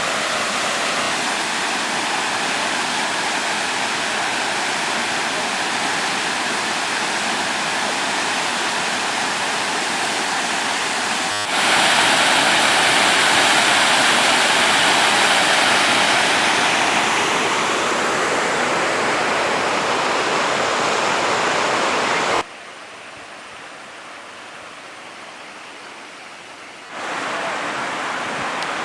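Waterfall's water rushing steadily. It jumps louder about a third of the way in, then drops much quieter for a few seconds near the end before returning.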